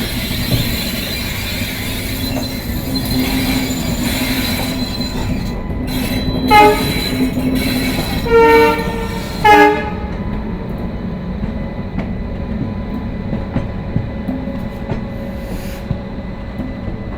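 Train running with steady rumble, brighter and hissier in the first five seconds; about six seconds in, the locomotive horn sounds three blasts: short, a longer one, then short.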